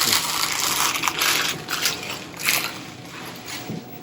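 Irregular crunching and rustling of dry egg noodles being handled and added to a pot of soup, in a run of bursts that eases near the end.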